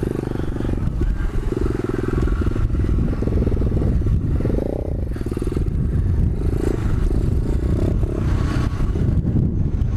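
125cc pit bike's single-cylinder engine running while being ridden, its revs rising and falling with the throttle.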